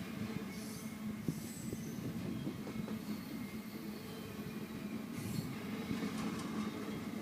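Freight train cars rolling past with a steady rumble and irregular wheel knocks, with brief high wheel squeals about a second in and again near five seconds.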